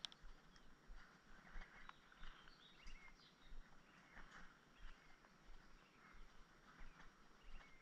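Near silence: faint outdoor ambience with a few soft, distant bird chirps.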